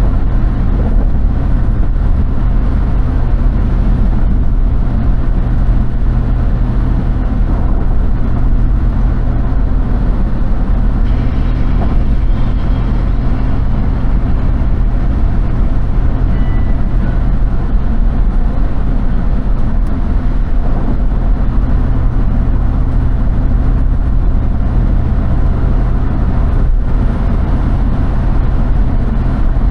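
Steady road and engine noise heard inside a moving car, a constant low drone.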